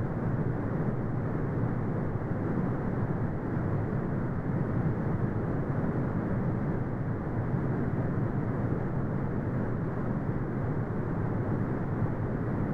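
Continuous brown noise: a steady, deep rumbling hiss with most of its energy in the low end and almost nothing above the mid range, unchanging throughout.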